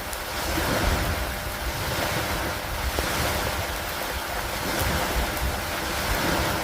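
Steady rain with a low, wind-like rumble that swells and eases every second or two.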